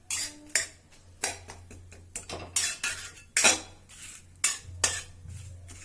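A cooking utensil stirring whole spices in a hot kadai, scraping and knocking against the pan in a quick, irregular run of clinks and scrapes.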